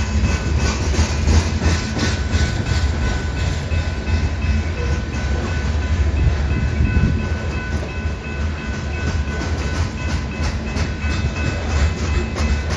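Freight train of loaded grain hopper cars rolling past: a steady heavy rumble with rapid, irregular clicking of the wheels over the rails.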